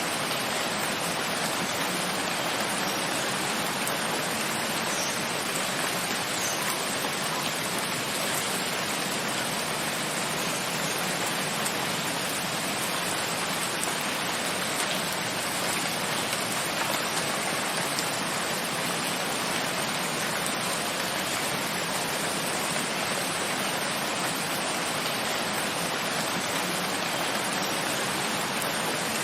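Steady rain falling, an even, unbroken hiss that never swells or drops.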